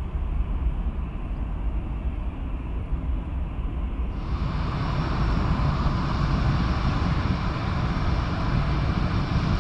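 Jet engines of a Boeing 747-8 freighter, a steady rumble with a broad hiss that suddenly turns brighter and a little louder about four seconds in.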